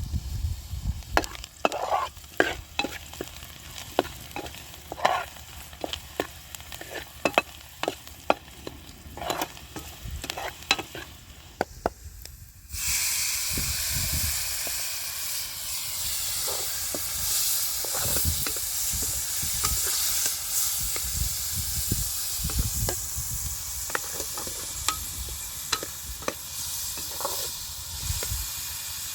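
Utensil clinks and scrapes against a cooking pot, then, about halfway through, frying starts suddenly: a steady sizzle of food in hot oil, with occasional knocks of a spoon in the pan.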